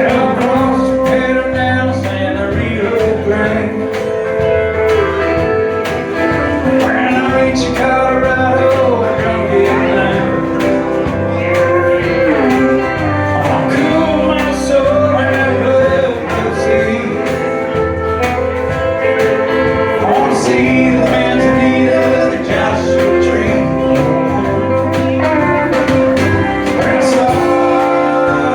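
Live country band playing, guitar over bass and drums, with bending, sliding guitar notes.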